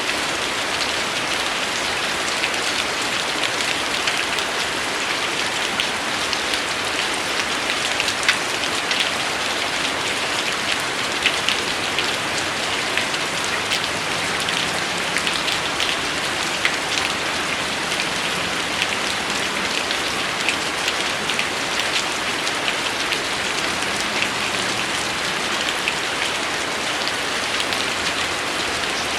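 Steady rain falling on a surface, an even wash of noise with many individual drop hits standing out as small clicks throughout.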